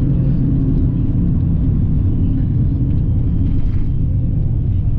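Supercharged Nissan 350Z's V6 engine running at a steady cruise with road noise, heard from inside the cabin; a steady low drone with no revving.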